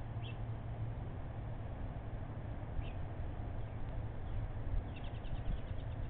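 Faint bird chirps: two short, high chirps in the first three seconds, then a quick trill of about ten notes near the end, over a steady low hum.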